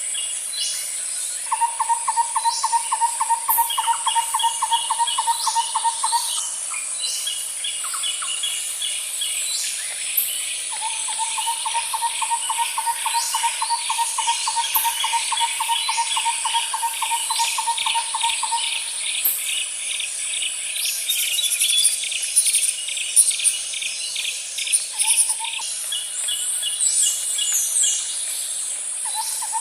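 Woodland night-style ambience: a steady high insect hiss under chirping and trilling birds. A lower, even, rapid trill runs in long bouts of several seconds each, starting about a second and a half in, again at about ten seconds, and once more near the end.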